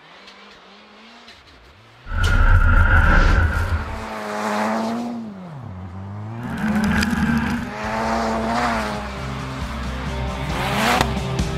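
A Ford Fiesta ST rallycross car's engine revving hard, its pitch rising and falling again and again as the driver works the throttle and gears on snow and ice. It is faint for the first two seconds, then comes in loud, with a sharp rise in revs near the end.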